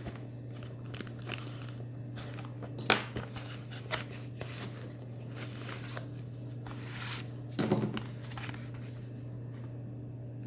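Hands opening SSD retail packaging: crinkling and tearing, with scattered clicks, a sharp snap about three seconds in and a heavier knock near the eighth second, over a steady low hum.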